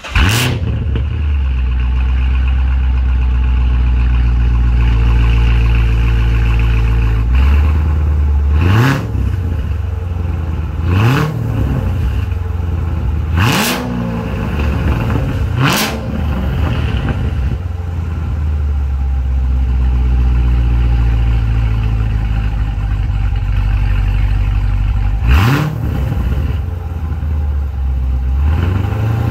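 2014 Corvette Stingray's 6.2-litre LT1 V8, with headers fitted and the catalytic converters cut out, fires up on a cold start and settles into a loud, steady idle. There are four quick throttle blips between about 9 and 16 seconds in, and one more a few seconds before the end.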